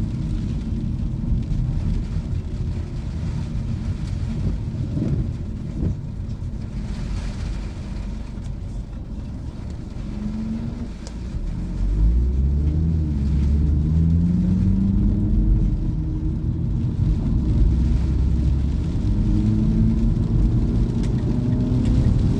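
Car driving on the road: steady road and engine rumble, growing louder about halfway through as the engine note rises with acceleration, then holding steady.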